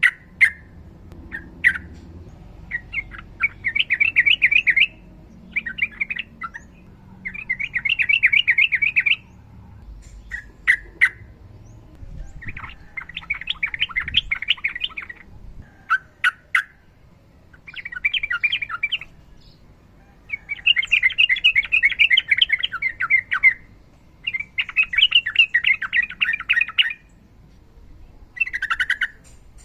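Sooty-headed bulbul singing: a run of rapid rolling phrases, each one to three seconds long, separated by short pauses and single sharp notes. This is the long rolling song (ropel) of a male in full voice.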